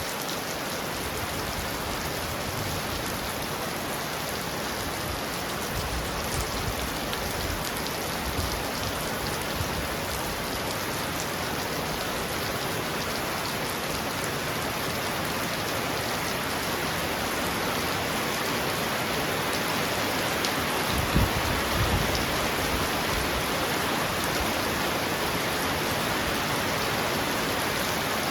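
Heavy rain pounding steadily on a roof, a dense even hiss of drops. A couple of short low thumps come about three-quarters of the way through.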